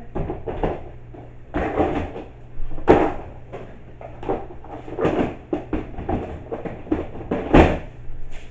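Plastic tackle boxes being slid and knocked into a plastic milk crate: a series of irregular clattering knocks and scrapes, two of them sharper than the rest, about three seconds in and near the end.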